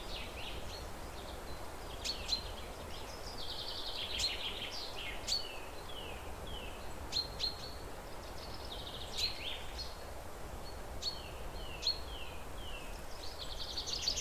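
Birdsong: repeated song phrases, each a fast high trill followed by a run of short down-slurred notes, with sharp chirps in between, over a steady faint background hiss.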